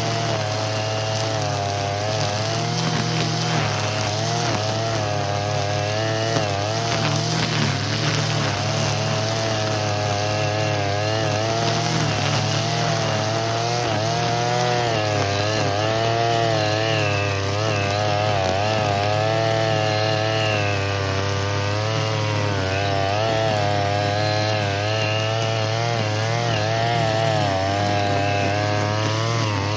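Petrol brush cutter with a nylon-cord trimmer head running at high speed, its engine note rising and dipping over and over as the spinning cord cuts through weeds.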